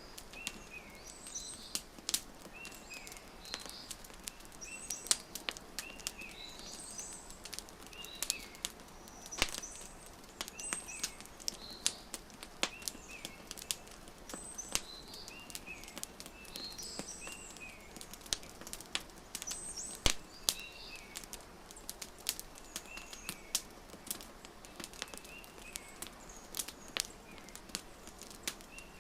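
Wood fire crackling, with irregular sharp pops and snaps over a low hiss. Small birds chirp in short, repeated calls throughout.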